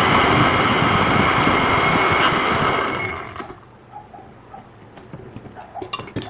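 Kitchen blender motor running, grinding chocolate sandwich cookies into crumbs. It runs steadily for about three seconds, then winds down and stops.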